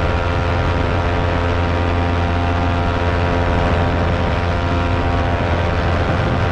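Electric fan running steadily: a loud, even motor hum with a strong low tone and many steady overtones.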